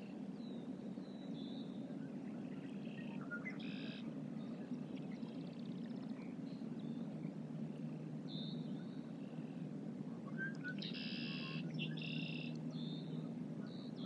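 Small birds chirping and calling on and off, loudest in a quick buzzy run of calls about eleven seconds in, over a steady low rumble.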